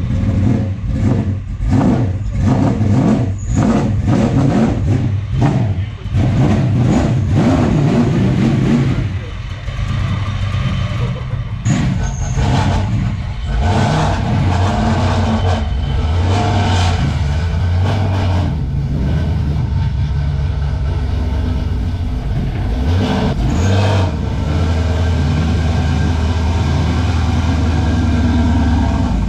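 Car engine running, revved a few times in the first several seconds, then idling with a steady low drone, with voices in the background.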